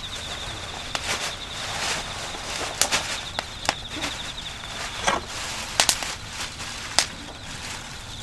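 Irregular sharp clicks and knocks of objects being handled, about nine of them, the loudest near the middle and again toward the end, over a steady high trill of insects.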